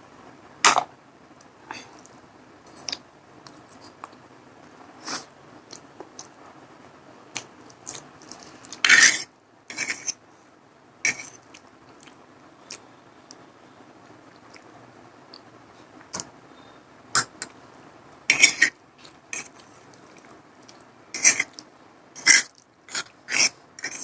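Close-up eating sounds of someone eating masala Maggi instant noodles: chewing with scattered short, sharp mouth and utensil sounds, coming in clusters with gaps between.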